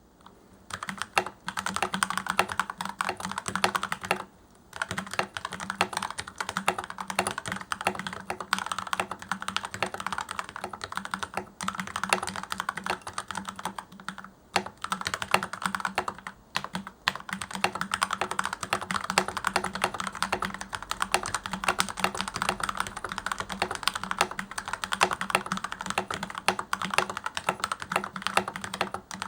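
Fast typing on a mechanical keyboard with Gateron Yellow linear switches lubed with white lithium grease: a dense run of key clacks, pausing briefly twice. The stabilizer wires are taped with plumber's tape and the PCB is lined with masking tape. A steady low hum runs under the typing.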